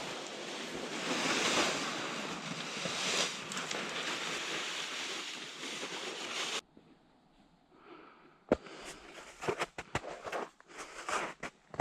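A steady rushing noise stops abruptly about six and a half seconds in. After a short hush comes a sharp snap, then a run of irregular crunches and clicks, like boots stepping through crusted snow and slush.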